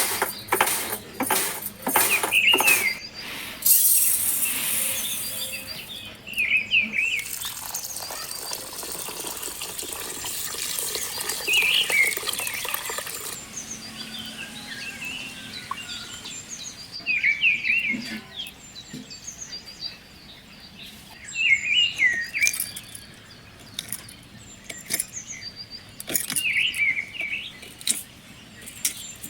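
A bird repeating a short chirping call about every five seconds, over scattered knocks and clatter. A hissing noise runs from a few seconds in until about halfway through.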